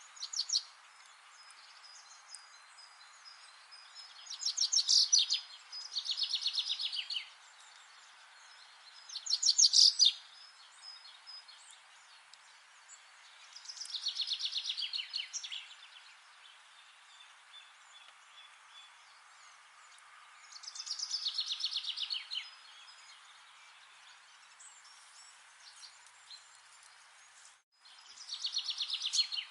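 A bird singing the same short, fast trilled phrase of high notes every few seconds, each phrase about a second long and dropping in pitch, over a steady hiss of background noise.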